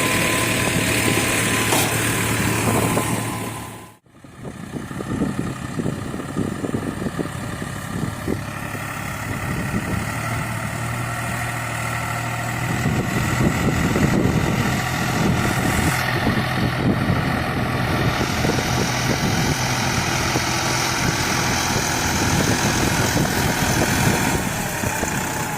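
New Holland 4710 tractor's diesel engine running steadily with a low, even hum. The sound drops out briefly about four seconds in, then the engine comes back and grows a little louder partway through.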